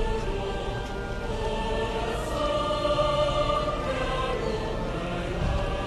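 Music with a group of voices singing together in long held notes.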